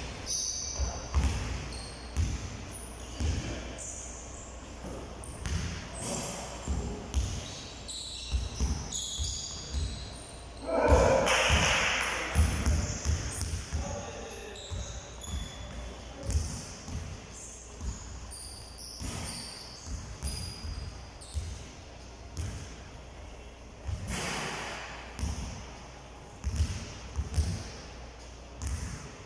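Many irregular thumps, like balls bouncing on a hard floor, echoing in a large hall, with voices in the background. A louder, noisier burst comes about 11 seconds in and another near 24 seconds.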